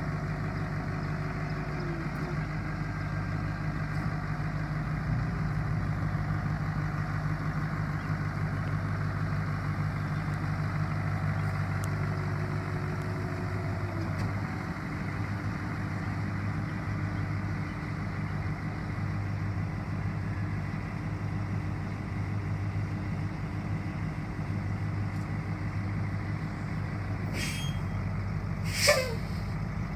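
1990 Ford C8000 bucket truck's engine idling steadily. Near the end comes a brief sharp hiss with a quickly falling pitch.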